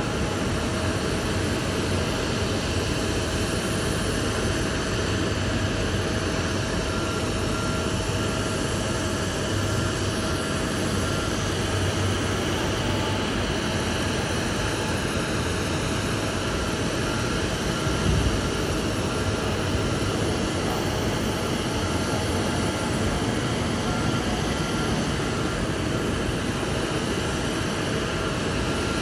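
Jet airliner engines running at the airport: a steady rushing noise with a faint constant whine, unchanging throughout, with a brief small bump about 18 seconds in.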